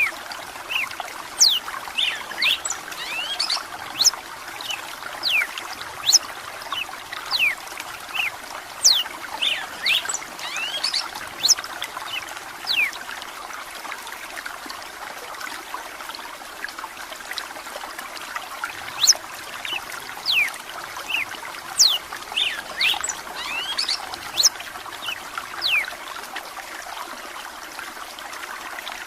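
Red-cowled cardinal singing phrases of quick, sharp whistled notes over steady trickling running water, with a lull of several seconds in the middle before the song resumes.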